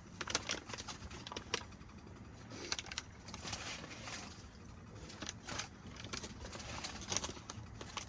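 Scattered light clicks, rattles and rustling from handling cookware and dry fettuccine as the pasta goes into a pot of freshly boiled water.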